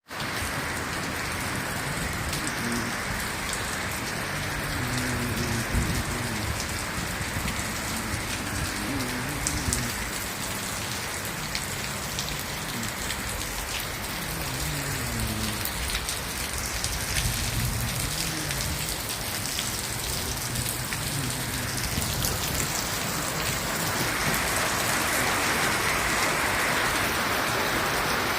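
Steady rain falling and splashing on hard surfaces, growing a little louder near the end.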